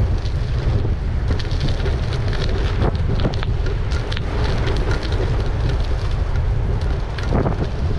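Wind buffeting the microphone while riding an e-bike: a steady, heavy low rumble, with scattered small clicks and rattles over it.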